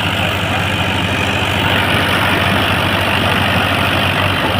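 Tractor diesel engine running hard and steady under load, with an even, rapid throb.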